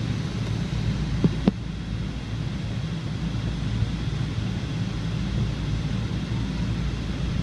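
Steady low rumble of an airliner's Rolls-Royce jet engines heard from inside the cabin. Two brief knocks come about a second and a half in.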